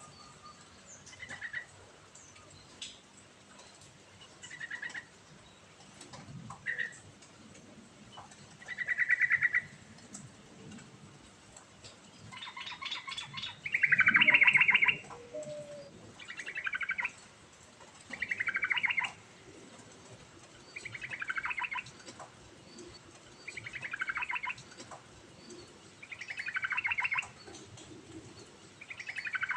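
Yellow-vented bulbul (trucuk) singing: short bubbly, chattering phrases repeated every two to three seconds, the loudest about halfway through.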